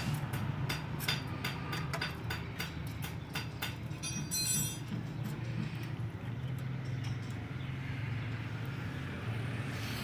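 A quick run of light, sharp taps or clicks, several a second, over a steady low hum, then a brief high-pitched squeak about four seconds in.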